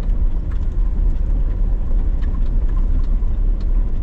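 Off-road vehicle driving up a snowy road: a steady low engine and road rumble with faint scattered clicks.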